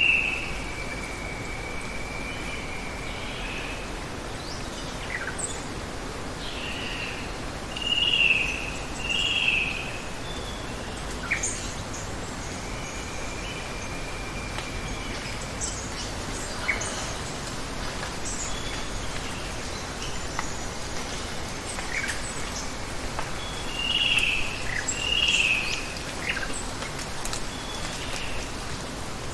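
Steady hiss of running water with birds calling over it: a long, level whistled note held for a few seconds, twice, and two pairs of short slurred calls that are the loudest sounds, among scattered short high chirps.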